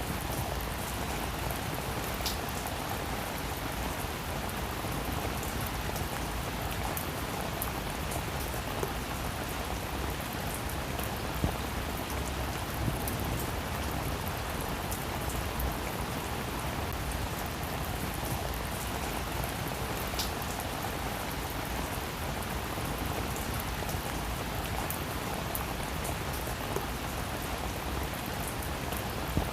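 Heavy rain falling steadily, an even hiss with a few sharper drop hits scattered through it.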